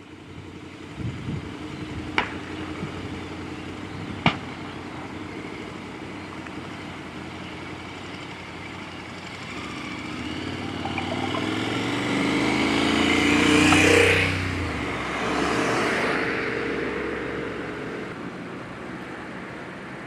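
A road vehicle drives past, its engine and tyre noise swelling to a peak about two-thirds of the way through and fading again, with a second, smaller pass just after. Earlier, two sharp cracks sound a couple of seconds apart over a steady hum.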